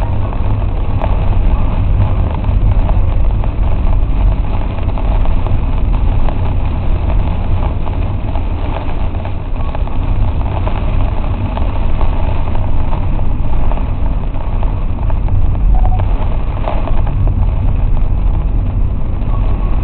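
Steady noise inside a car driving in heavy rain: a deep rumble of the car on the wet road under an even hiss of rain and spray.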